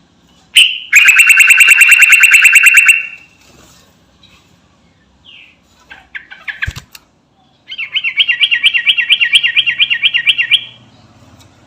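Sooty-headed bulbul (trucukan) singing loudly: a sharp note, then a rapid trill of about two seconds, a few short chirps, and a second fast, warbling trill of about three seconds.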